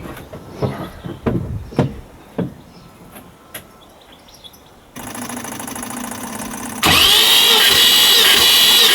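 Starter motor cranking the TR7's V8 with its spark plugs out, as for a compression test: a loud, steady electric whine with an even pulse that starts abruptly about seven seconds in. Before it come a few light clicks and knocks, then a fainter steady hum from about five seconds.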